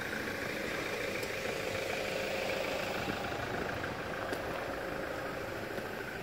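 First-generation Toyota Celica coupe idling steadily.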